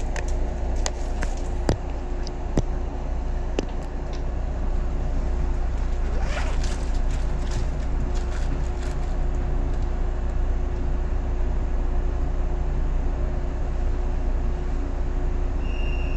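Inside a 115-series electric train carriage: a steady low rumble with a constant hum, a few sharp clicks in the first few seconds and a brief scraping sound about six seconds in.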